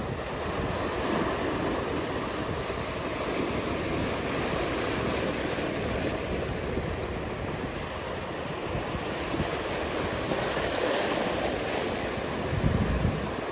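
Ocean surf: a steady wash of breaking waves, with a short low thump near the end.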